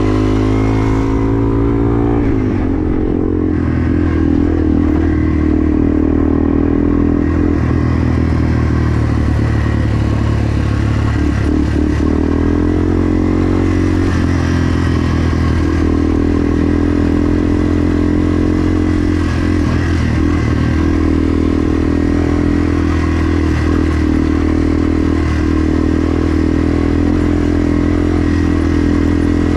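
Yamaha TW200's single-cylinder four-stroke engine running hard on a fast ride, its pitch falling and rising every few seconds with throttle and speed.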